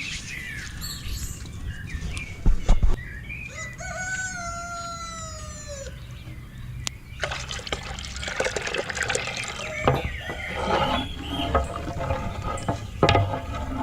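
A rooster crows once in one long call of about two seconds, a little after a couple of dull knocks. In the second half comes a busy jumble of clicks and mixed sounds.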